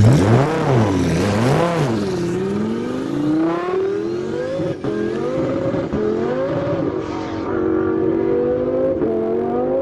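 A sports car engine is revved up and down twice, then accelerates hard. Its pitch climbs, drops back at each gear change and climbs again.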